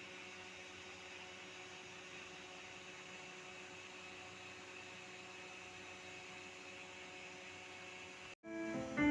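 Steady electrical hum and hiss with several faint steady tones. About eight and a half seconds in it cuts out briefly, and electronic keyboard notes begin.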